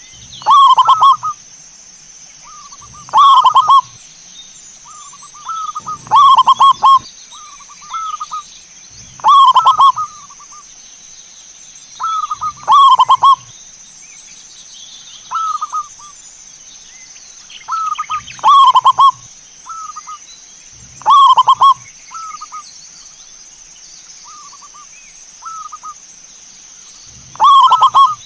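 Zebra dove (perkutut) cooing: a loud, rolling coo phrase repeated roughly every three seconds, with shorter, softer notes between the phrases and a longer gap partway through. A steady faint high-pitched hiss runs underneath.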